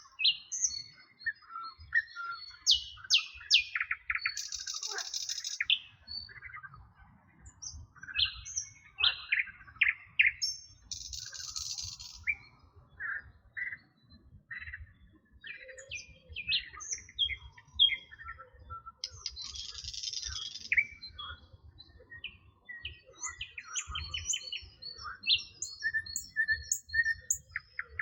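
Several songbirds singing together: a dense mix of quick high chirps, whistles and trills. Three times a harsh, buzzy note lasting about a second stands out above the rest.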